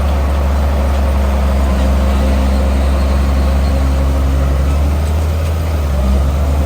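Heavy diesel engine of a bulldozer running steadily under load, a loud, even low drone.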